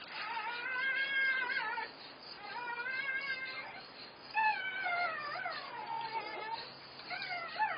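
Newborn German Shepherd puppies crying, a series of high-pitched squealing cries, each rising and falling over about a second.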